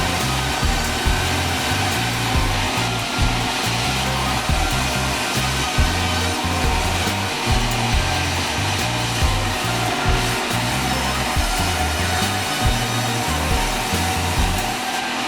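Sawmill saw cutting a long meranti log: a loud, steady rushing noise with a steady whine running through it, over an uneven low rumble that drops away near the end.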